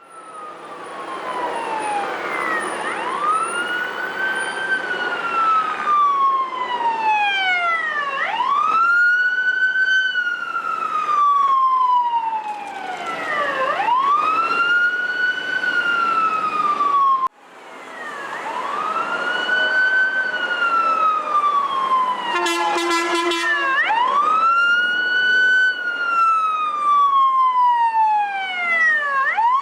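Fire department emergency vehicle siren in a slow wail, each cycle rising quickly then falling slowly over about five seconds, about five cycles in all. A short horn blast sounds about two-thirds of the way through, over vehicle road noise.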